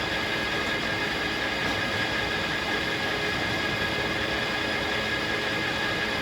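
Circular sawmill running steadily: an even mechanical drone with a fixed hum of several tones and no change through the stretch.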